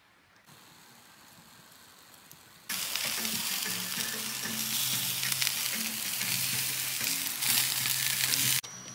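Food sizzling in hot fat, a loud, even sizzle that starts suddenly between two and three seconds in and cuts off sharply just before the end.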